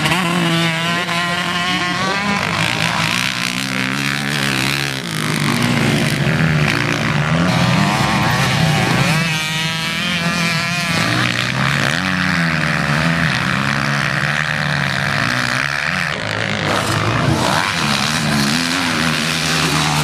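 Several motocross motorcycles racing together, their engines revving up and falling back as they accelerate and shift, with one bike passing especially loud about halfway through.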